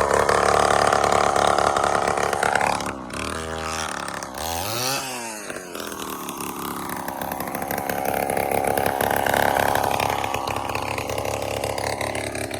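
Small pull-start kids' dirt bike engine running, its revs dropping about three seconds in, rising and falling once briefly, then slowly building again.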